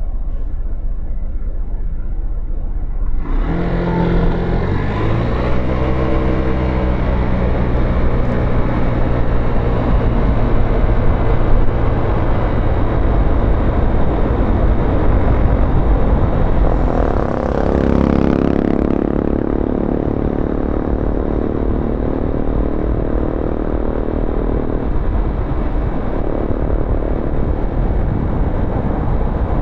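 Motorcycle engine running under way with steady road and wind noise, rising in pitch as it accelerates a few seconds in and again past the middle, then holding steady.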